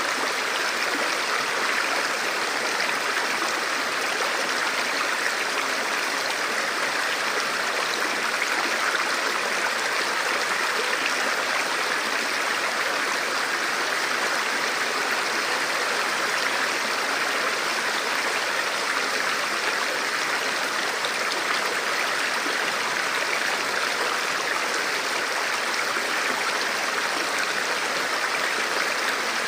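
Forest river or stream flowing over rocks: a steady rushing of water with no breaks.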